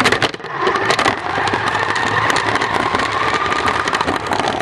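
RC car driving, its motor whining steadily under a dense rattling clatter of the chassis and wheels over rough ground, heard from a camera riding on the car.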